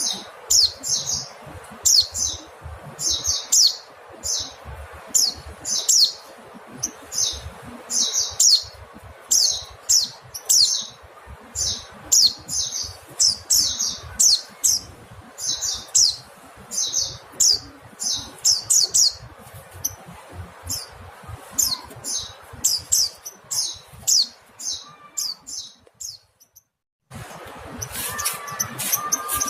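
Mountain white-eye calling: a rapid run of short, high chirps, several a second. Near the end the calls break off for about a second of silence, and then another recording begins, with a steady hiss under fresh chirps.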